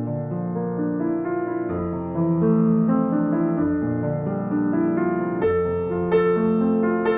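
Slow, gentle solo piano music playing sustained chords and a melody with a soft, electric-piano-like tone.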